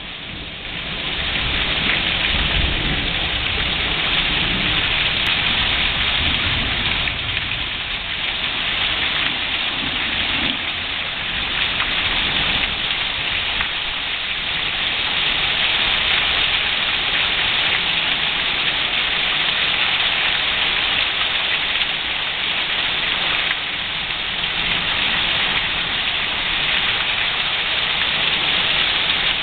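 Heavy thunderstorm rain pouring down steadily in a continuous hiss. A low rumble sits under it through roughly the first ten seconds.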